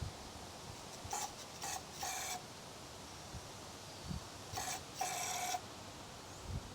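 Aerosol carburetor cleaner sprayed up into a snowblower carburetor in short hissing bursts: three quick sprays about a second in, then two more near the end, the last one the longest. The carburetor is being cleaned of varnish.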